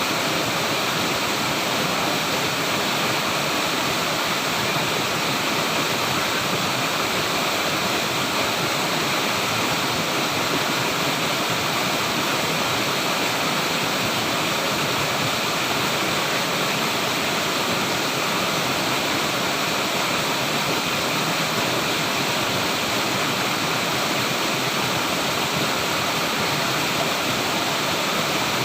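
Flowing water rushing steadily, a dense, even wash of sound with no breaks or separate splashes.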